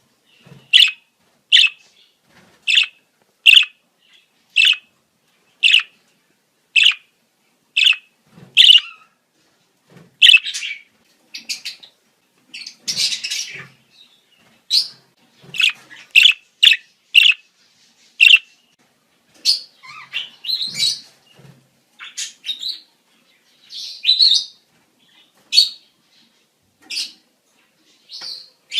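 Budgerigars calling in breeding season: short sharp chirps about once a second, turning into busier, more varied chirping and chatter from about ten seconds in.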